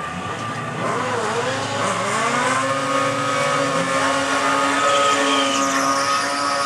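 Sport bike engines running hard at high revs down a drag strip, the pitch dipping at gear changes about a second and two seconds in, then holding high and steady.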